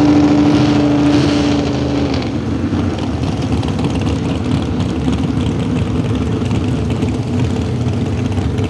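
V8 modified pulling tractor's small-block V8 engine running loud and hard. A strong steady pitch holds for about the first two seconds, then gives way to a rougher, noisier sound.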